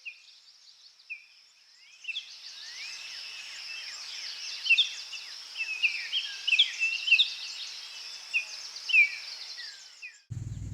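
Forest ambience: many small birds chirping and whistling in a dense chorus over a steady high-pitched drone. Faint at first, it fills out about two seconds in and cuts off abruptly near the end.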